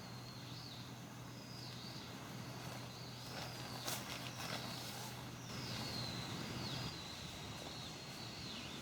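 A bird calling repeatedly in short high whistled notes, each bending downward at the end, over a faint steady outdoor hiss; a few clicks or steps about four seconds in.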